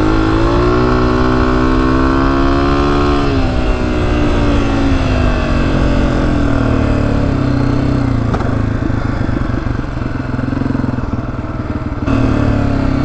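Honda CRF250F dirt bike's single-cylinder four-stroke engine under way. Its pitch rises steadily for about three seconds, then drops off. It runs lower and rougher until near the end, when it picks up again.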